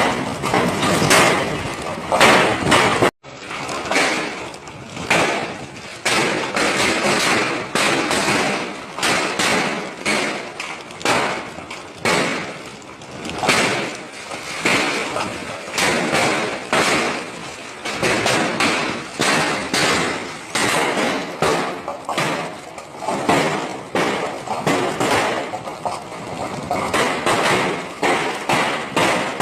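Large hailstones hitting hard surfaces in a dense, irregular barrage of thuds and cracks, briefly cut off about three seconds in.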